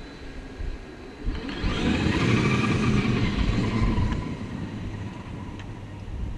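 Brushless electric RC desert truck driving through snow: a motor whine with tyre and chassis noise swells from about a second in, holds loudest for a couple of seconds with the pitch shifting as the throttle changes, then fades.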